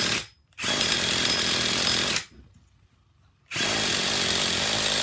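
Small glow-fuel nitro RC engine running hard, then cutting out sharply twice: a brief dropout at the start and about a second of near silence midway before it comes back. The mixture has just been leaned out, and the engine is stumbling on it.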